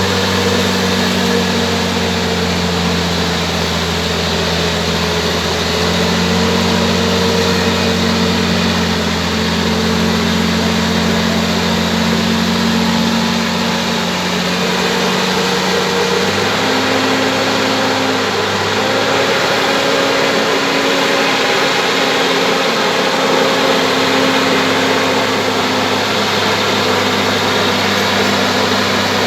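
Bulldozer's diesel engine running steadily, its note shifting slightly a little past the middle.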